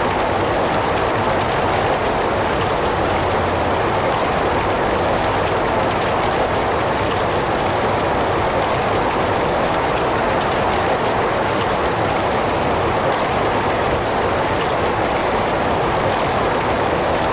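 Heavy rain falling steadily: a dense, even hiss with no individual drops or thunder standing out.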